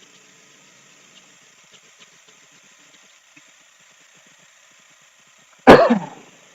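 1998 Mazda 626's 2.0 L four-cylinder engine idling faintly and unevenly, a rough idle with its ignition timing retarded well below spec. Near the end comes a sudden loud burst that dies away within about half a second.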